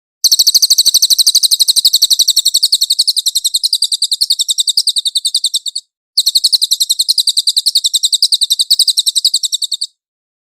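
Cililin song bird giving a rapid, high-pitched chattering trill of about ten notes a second, in two long bouts broken by a short pause about six seconds in.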